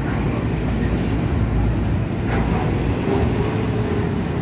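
Double-stack container train rolling past below, a steady low rumble of its loaded well cars' steel wheels on the rails, with one brief click about two seconds in.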